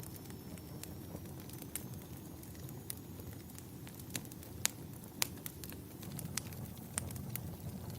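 Campfire burning: a steady low rumble of flames with irregular sharp crackles and pops from the burning wood, two of them louder about halfway through.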